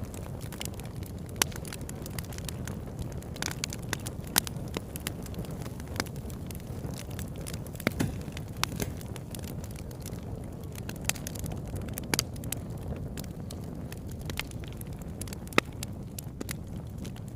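Wood campfire crackling, with sharp pops at irregular moments over a steady low rumble of the burning fire.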